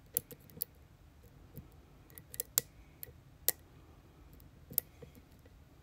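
Lock pick probing the pin stack of a Schlage Everest pin-tumbler lock: scattered, irregular small metallic clicks as the pick pokes at the pins.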